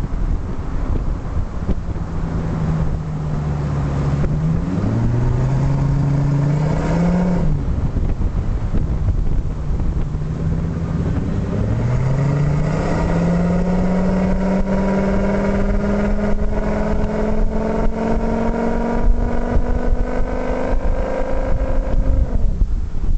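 Ford F-350's 6.8-litre Triton V10, running on an LPG conversion, pulling up through the revs twice: a short climb in pitch that drops away about seven seconds in, then a long, slow, steady climb that falls off sharply near the end.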